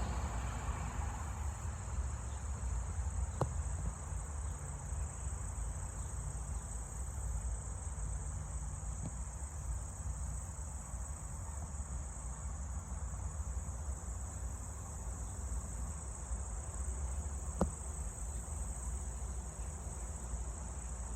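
Steady, high-pitched insect chorus, with a low rumble underneath and two faint clicks, one a few seconds in and one near the end.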